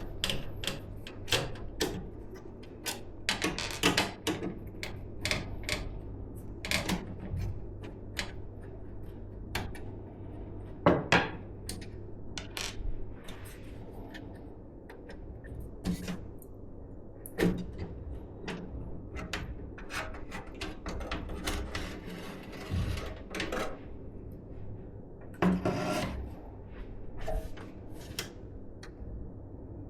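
Hands working on PC parts: scattered clicks, taps and rubbing, with a few longer scraping sounds, over a low steady hum.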